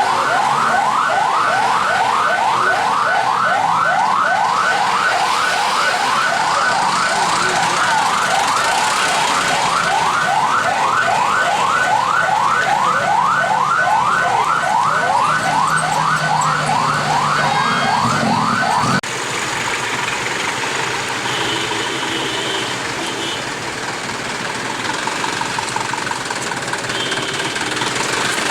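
Electronic siren in a rapid rising yelp, about three sweeps a second, that cuts off suddenly about two-thirds of the way through. Vehicle engines run underneath and are left alone after it stops.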